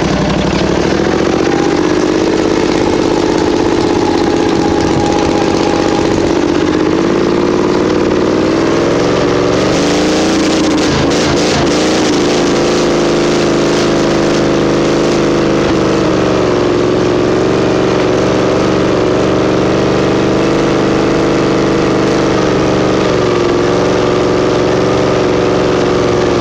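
Small garden-tractor engine running steadily under load as the tractor drags a telephone pole. About ten seconds in, the engine pitch dips and wavers with a brief rattle, then steadies again.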